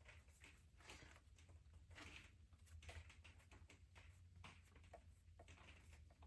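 Near silence: shop room tone with a steady low hum and faint scattered clicks.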